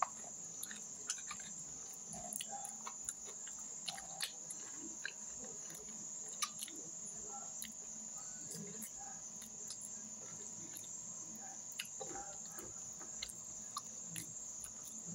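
A person chewing and biting cooked beef off the bone, with scattered small wet clicks and smacks, over a steady high-pitched cricket trill.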